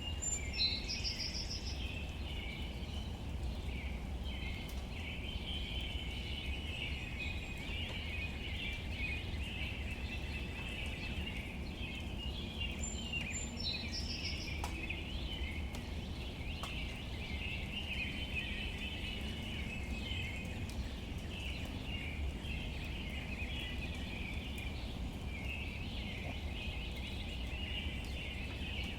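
Outdoor nature ambience: a steady chorus of high chirping birds or insects over a low rumble, with a short high bird call about half a second in and again about 13 seconds in.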